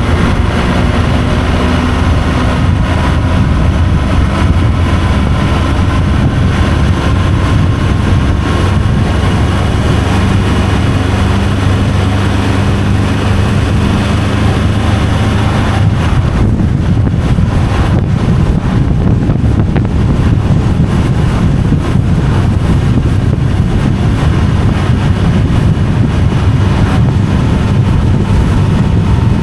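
Vehicle driving at road speed: a steady engine drone mixed with loud wind and road noise, with the engine pitch drifting slightly.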